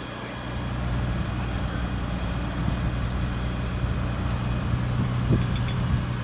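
Heavy truck engine running steadily with a deep, even hum, growing louder about a second in and then holding.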